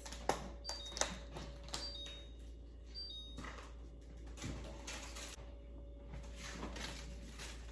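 Light, intermittent clatter and knocks of food containers being handled and set down while a refrigerator is cleaned out.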